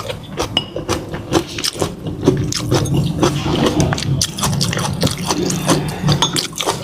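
Close-miked eating sounds: wet chewing and mouth clicks, many sharp smacks in quick succession, with a steadier low rumble in the middle of the stretch.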